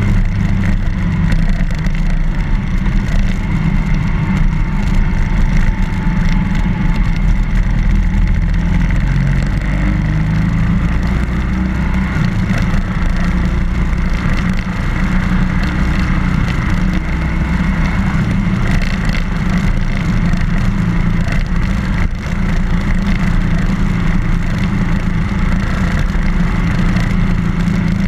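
BMW R1200GS motorcycle's flat-twin engine running steadily while riding, its note shifting a little partway through.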